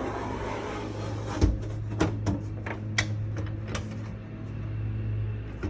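Plastic and cardboard diorama parts being handled and fitted together: a run of sharp clicks and knocks over a steady low hum.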